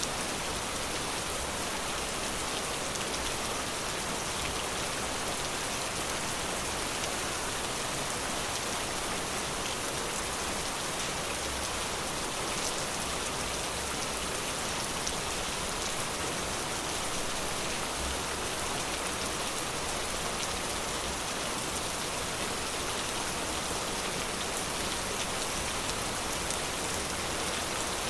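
Steady rain falling, an even hiss with fine drop patter, unchanging throughout.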